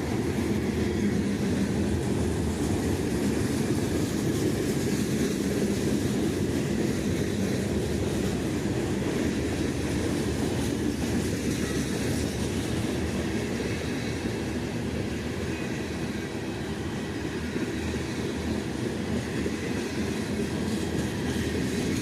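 Freight train cars rolling past, a steady noise of steel wheels on the rails.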